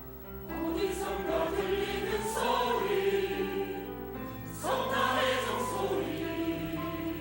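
Church choir singing a Christian anthem over instrumental accompaniment, the voices coming in about half a second in after the introduction, with a second phrase starting a little past the middle.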